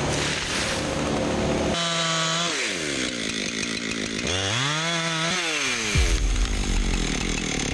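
Chainsaw revving up and down as it cuts, its engine pitch climbing, holding and dropping several times. About six seconds in, a deep low rumble joins it.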